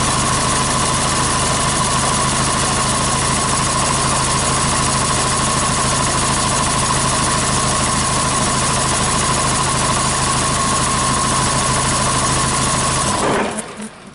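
Hyundai D4CB 2.5-litre four-cylinder common-rail turbodiesel running steadily with a steady high whine, then shut off about thirteen seconds in, leaving a few faint ticks.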